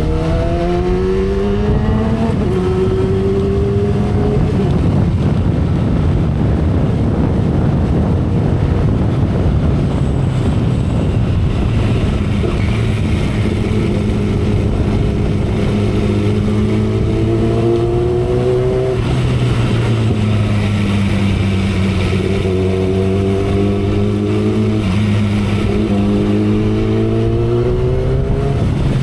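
Kawasaki ZX-10R's inline-four engine under way on the expressway, its note climbing in pitch and dropping suddenly at gear changes about two seconds in and again near 19 and 25 seconds, with wind rush throughout. A stretch of steadier running in the first half is mostly wind rush.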